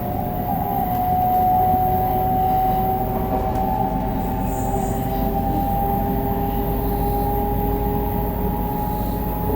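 Shinkansen 500 series running sound: the Toshiba GTO-VVVF inverter and traction motors whine in two tones that rise slowly in pitch as the train picks up speed, over a steady rumble of wheels on track.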